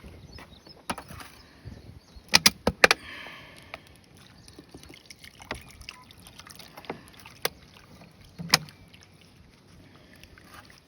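A series of sharp knocks and clicks: a quick cluster of four about two seconds in, then single knocks later on.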